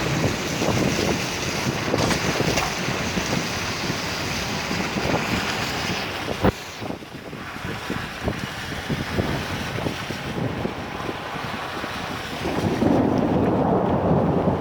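Heavy rain in gusty wind, the wind buffeting the microphone with a constant low rumble and crackle. A single sharp click about halfway through, and a louder low swell near the end.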